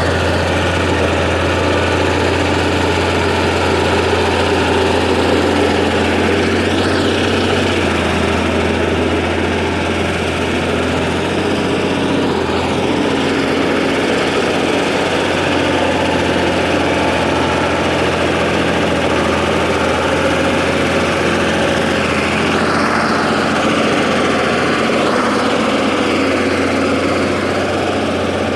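Fiatallis AD7B crawler tractor's diesel engine running steadily under work, with a few faint brief rising-and-falling whines over it.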